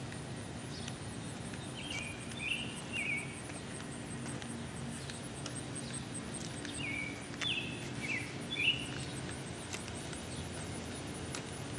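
A bird calling in two short runs of quick chirps, each note falling slightly in pitch, over a steady low background hum.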